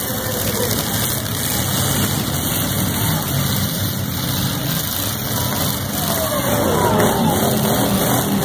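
Engines of several demolition derby cars running and revving together in the arena. Sliding changes in pitch come in from about two-thirds of the way through.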